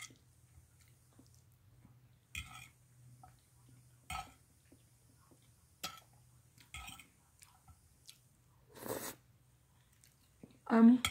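Close-up mouth sounds of eating beef stroganoff with egg noodles: chewing and smacking in short, separate bursts every second or two. A short breathy noise comes about nine seconds in, and a brief voiced sound near the end.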